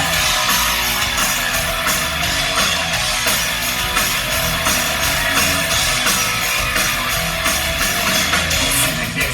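Rock band playing live in an instrumental passage of the song: electric guitar over a steady drum beat, with no vocals.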